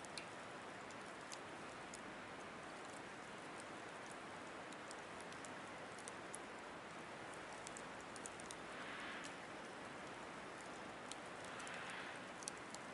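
Wood fire crackling in a Picogrill 760 fire pit as it catches: scattered sharp pops and ticks over a steady hiss, with two soft rushes of air near the end.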